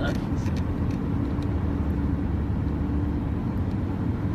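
Steady low rumble with a constant hum running through it, even in level throughout, with a few faint ticks.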